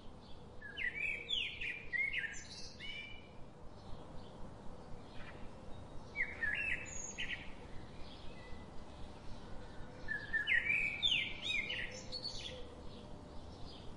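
Birds chirping in three short bursts of quick, sweeping high notes a few seconds apart, over a faint steady hiss.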